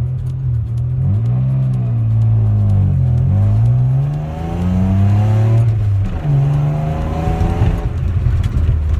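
A 1995 Mazda MX-6's 2.5-litre V6 accelerating hard from a takeoff through its 5-speed manual gearbox. It revs up, drops in pitch at each of two upshifts about 3 and 6 seconds in, then revs up again. The exhaust is loud, through a straight pipe with no catalytic converter and an aftermarket muffler.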